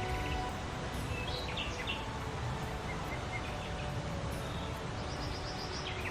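Songbirds chirping in short calls over a steady outdoor background hum, with background music fading out in the first half second.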